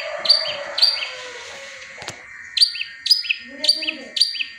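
Long-tailed shrike (cendet) mimicking the tengkek buto kingfisher call, giving it as a rapid series of sharp, repeated calls. Two come about half a second apart, then after a short pause four more follow at the same pace.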